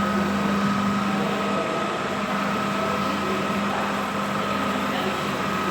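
Workshop lathe running steadily: a constant motor hum with a thin, steady high tone over it.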